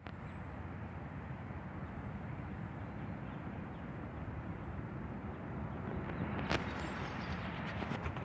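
Steady outdoor background noise, a dense low rumble and hiss, with a few faint high chirps and one sharp click about six and a half seconds in.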